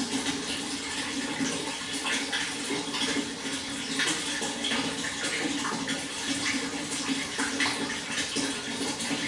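Water flowing steadily, with many small splashes and gurgles breaking through.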